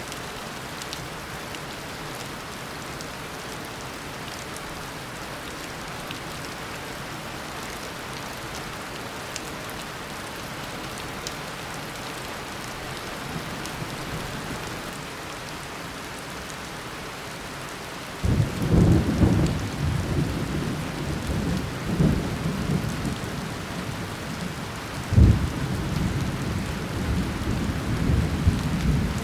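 Heavy tropical rain falling steadily as an even hiss. About eighteen seconds in, a thunderclap breaks suddenly into a deep rolling rumble, with louder cracks around four and seven seconds later.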